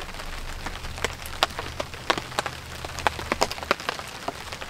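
Irregular sharp pops and ticks from a wood campfire crackling, mixed with rain drops tapping on a tarp shelter.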